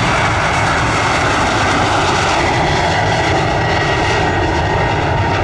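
Jet airliner taking off close by, its twin turbofan engines at takeoff thrust making a loud, steady rush of jet noise; the departing aircraft is a Boeing 737 MAX.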